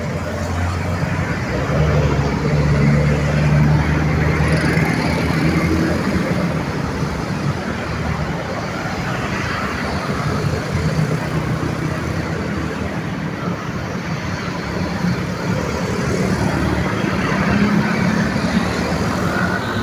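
Busy road traffic: several vehicles' engines running and tyres hissing as they pass. A low engine drone from heavier vehicles is strongest in the first few seconds and again around the middle.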